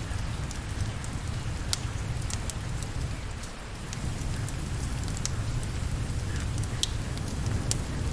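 Steady rain falling, with a low continuous rumble underneath and scattered sharp crackles.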